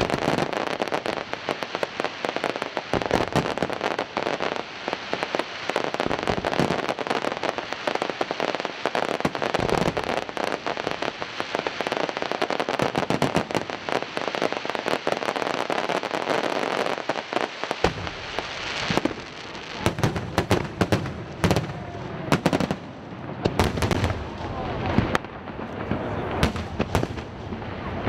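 Aerial firework shells bursting in a display, with fast, dense crackling and popping. From about two-thirds of the way through, heavier, deeper booms of shell bursts stand out among the crackle.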